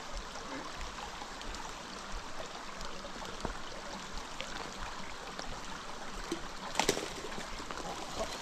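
Stream water running steadily, with one short knock near the end.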